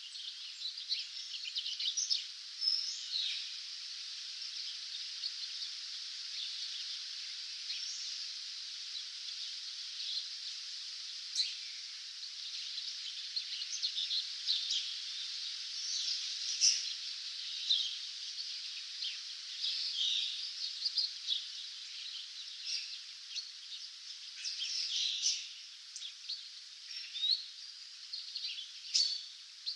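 Dawn chorus of many wild birds: a dense scatter of short chirps and calls over a steady high hiss, with no low sounds.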